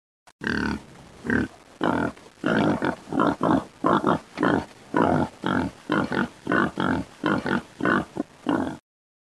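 An animal making a rapid series of short grunting calls, about two or three a second, which cut off abruptly near the end.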